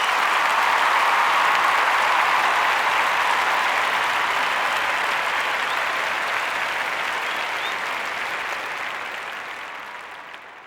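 Crowd applauding: a dense, even clapping that is loudest near the start and then slowly fades out.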